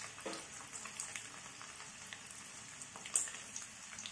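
Potatoes and eggs frying in hot oil, a steady sizzle with scattered small crackles and one sharper pop about three seconds in.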